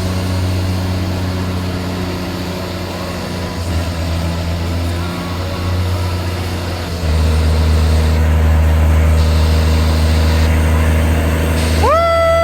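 Truck engine running steadily, getting louder about seven seconds in. Near the end a pitched horn-like tone swoops up, holds for about a second and drops away.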